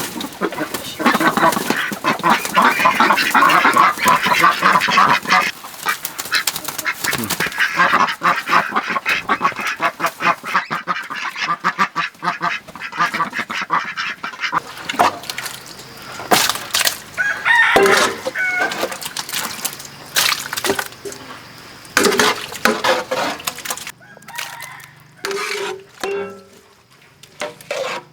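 Ducks quacking, a loud dense flurry in the first few seconds and then scattered calls, mixed with sharp knocks.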